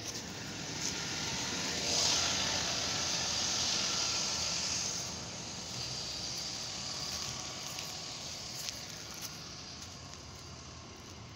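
Metrolink commuter train in the rail yard, a steady hiss of running noise that swells about two seconds in and eases off after about five seconds.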